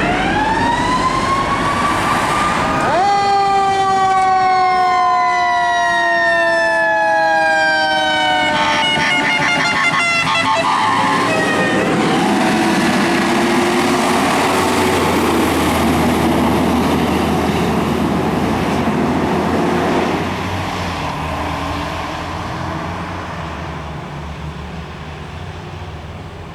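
Fire apparatus sirens wailing as the vehicles pass: the siren tone rises, drops sharply in pitch at about three seconds as they go by, then falls slowly. A fast yelping siren pattern follows for a few seconds, and then a truck engine rumbles and fades into the distance.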